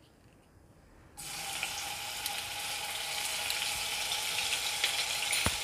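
Ginger-garlic paste dropped into hot oil in a kadhai, sizzling. The sizzle starts suddenly about a second in and then runs steadily.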